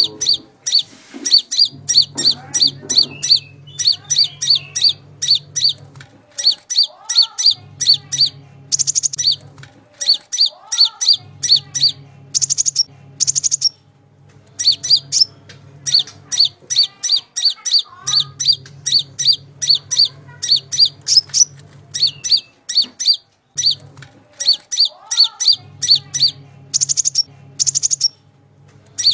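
Kolibri ninja (Van Hasselt's sunbird) singing: rapid runs of short, sharp, high chirps, several a second, in bursts broken by brief pauses. A low hum comes and goes underneath, with a few lower rising calls mixed in.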